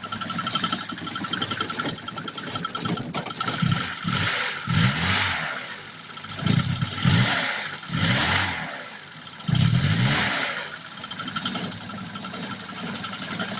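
VAZ-2102's inline-four engine running with a rapid knock, revved up and down several times in the middle. The knock goes away when the crankshaft drive belt is taken off and has stayed despite new water pumps, alternators and fan, pointing to something in the belt drive.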